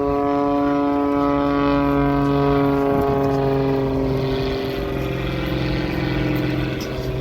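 Propeller-driven aerobatic stunt plane's engine droning, its pitch slowly falling, over a steady low hum.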